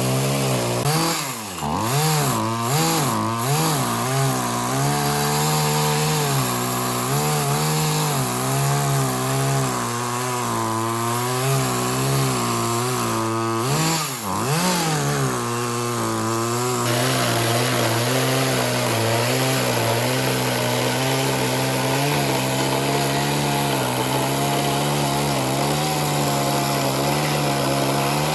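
Petrol chainsaw running under load, its engine pitch dipping and recovering several times early on and again about halfway through, then holding steady.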